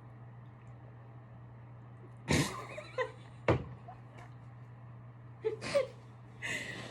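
A handful of short, sharp vocal bursts from a person, like coughs or gasps, over a steady low hum.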